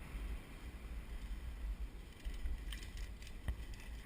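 Wind rumbling on a GoPro's microphone while riding a bicycle, with a few faint ticks in the last second.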